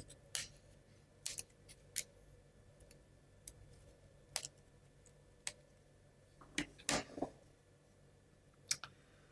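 Scattered light clicks and taps of small laser-cut plywood parts being pressed out of their board and handled, about a dozen sharp clicks spread irregularly, with a small cluster a little before the seven-second mark.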